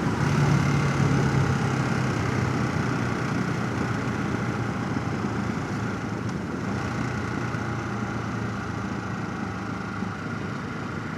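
Motorcycle engine running at low, steady revs under a haze of wind and road noise, heard through a helmet chin-mounted camera; the sound slowly gets quieter.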